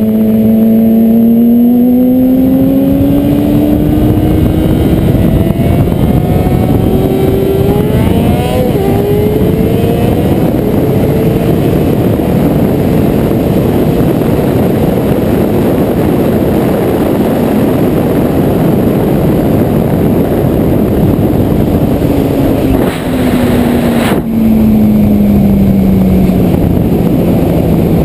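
Honda CBR600RR inline-four with a slip-on exhaust accelerating hard from a rolling start. The engine note climbs, drops at an upshift about eight seconds in and climbs again, then is buried under heavy wind noise on the microphone at speed. Near the end the note falls steadily as the bike slows.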